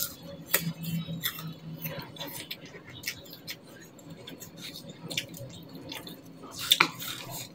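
Crisp crunching and chewing of raw apple and green pear slices, a run of short, sharp crunches and wet mouth sounds, with the fruit dabbed into chili sambal in a stone mortar; a louder crunch or scrape comes near the end.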